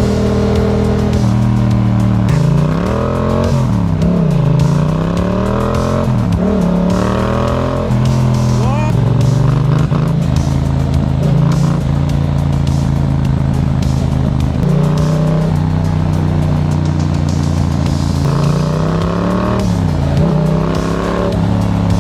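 Yamaha MT-07's parallel-twin engine through a Black Widow aftermarket exhaust, idling steadily with several throttle blips in which the revs rise and drop back to idle.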